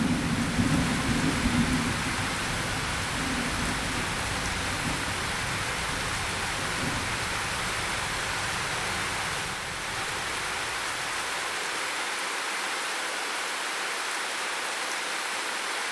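Steady rain falling, with a low thunder rumble that dies away over the first few seconds.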